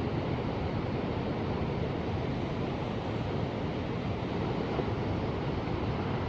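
Ocean surf: a steady rush of waves, even throughout with no single wave breaking out above the rest.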